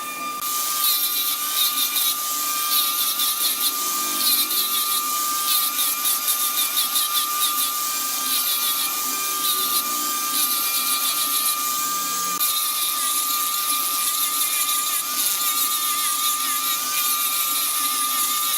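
A woodworking power tool running with a steady high-pitched whine and a hissing cutting noise as it works into wood, pulsing rapidly in loudness over the first several seconds and then steadier. It stops suddenly at the very end.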